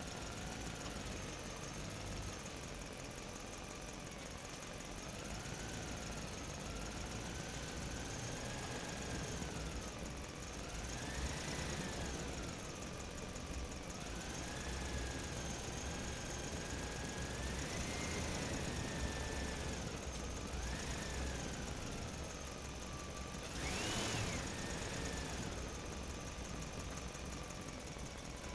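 Small motor running with a whine whose pitch rises and falls repeatedly as its speed changes, over a low rumble.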